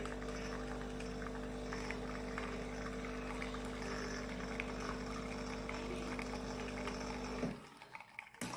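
De'Longhi Specialista Prestigio espresso machine's pump running steadily with water flowing through, a constant hum that cuts off about seven and a half seconds in, followed by a single click.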